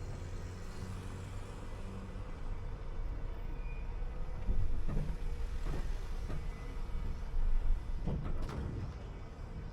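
City bus driving along, with a steady low engine and road rumble. Several sharp knocks and rattles come about halfway through and again near the end.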